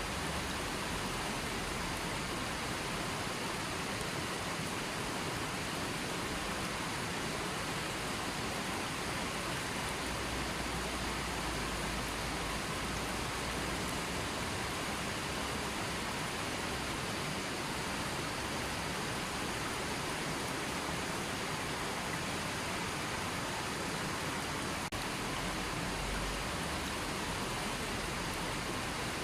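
River water flowing steadily, an even rushing noise with no let-up.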